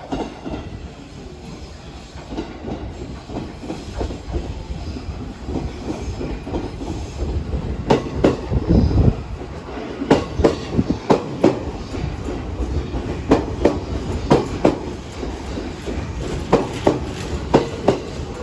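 Electric commuter train pulling into the station platform, with a low rumble and wheels clacking over rail joints. The clacks grow louder and come in quick pairs and groups from about halfway through as the cars pass.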